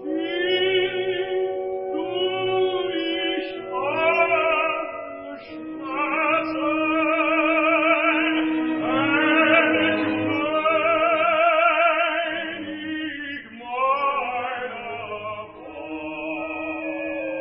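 Operatic tenor singing in phrases with a wide vibrato, broken by short pauses, over held chords from an orchestra.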